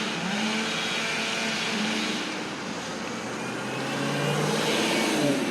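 A motor vehicle's engine running, with road noise; its pitch rises over the last couple of seconds as it speeds up.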